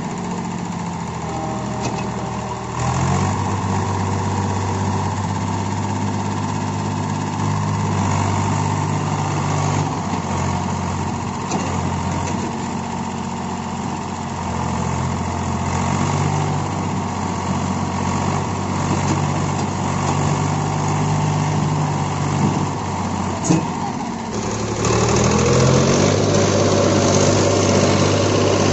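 Diesel engines of a JCB backhoe loader and a tractor running steadily. A single sharp knock comes shortly before the engine note turns louder and higher near the end, as an engine revs up.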